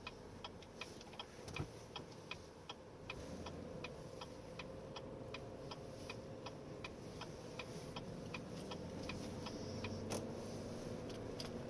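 Left turn signal's flasher clicking at an even rate of about three clicks a second, over a faint steady hum.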